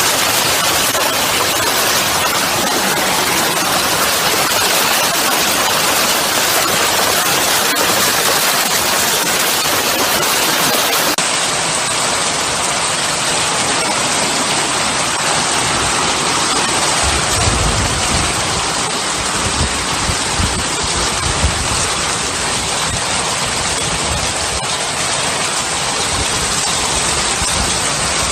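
Heavy hail pelting down in a dense, steady roar of impacts. Deep irregular thumps come through in the later part.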